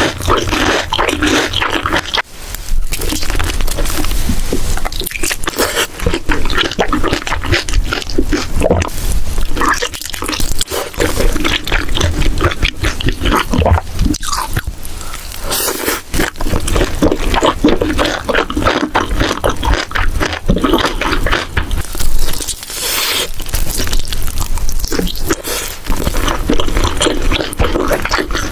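Close-miked mukbang eating sounds: chewing and crunching food, a dense run of short crackles and clicks with brief pauses.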